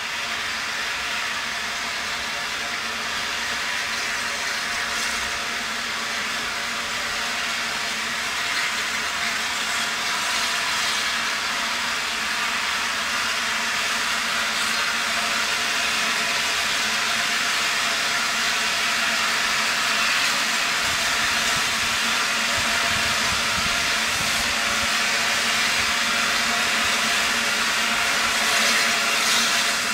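Steam locomotive, the LNER Peppercorn A1 Pacific 60163 Tornado, letting off steam with a loud, steady hiss and a humming tone beneath it. The hiss grows slightly louder over the half minute.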